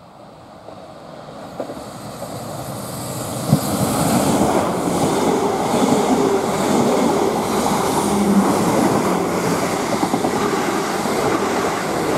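Two coupled Class 444 Desiro electric multiple units run through the station at speed without stopping. The rushing noise of wheels on rail and air grows over the first four seconds as the train approaches, then holds steady as the carriages pass close by, with a single sharp knock about three and a half seconds in.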